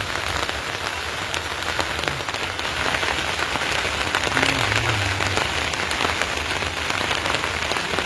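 Steady rain falling, a continuous hiss dotted with many individual drops ticking.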